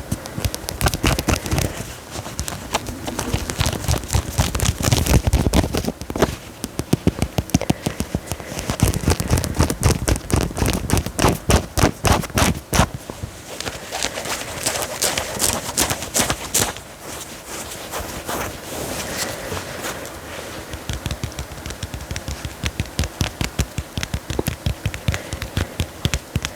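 Fingers scratching and rubbing the fabric of clothing, in quick bursts of rough scratchy strokes, with softer steadier rubbing in the later part.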